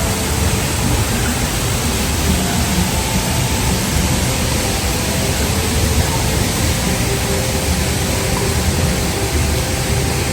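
Steady, loud rushing noise, with faint musical tones under it.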